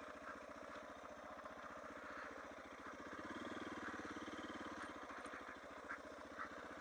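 Suzuki DR650's single-cylinder four-stroke engine running at low revs, an even rapid beat of firing pulses that grows slightly louder a few seconds in.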